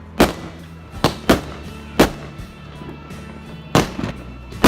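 Fireworks going off: about six sharp bangs at uneven intervals, two of them close together about a second in. Music with steady low notes plays underneath.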